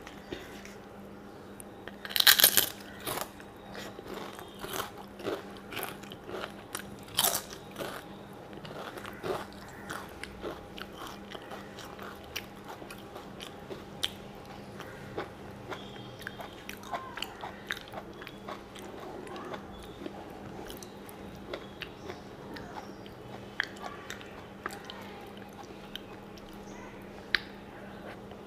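Close-miked crunching of crisp fried papad being crumbled into rice and chewed. The loudest crunches come about two seconds in and again around seven seconds, followed by softer chewing and small crackles.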